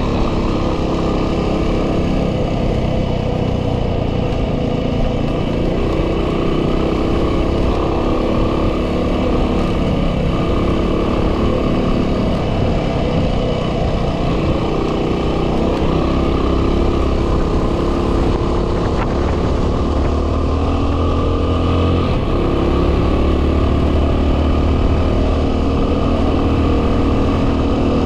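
A 2010 Yamaha WR250R's stock 250 cc single-cylinder four-stroke engine running steadily at riding speed, its pitch wavering a little. Heavy wind noise buffets the microphone throughout.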